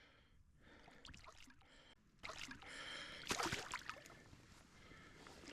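Faint river water splashing and trickling close by, starting about two seconds in and briefly louder a little past the middle.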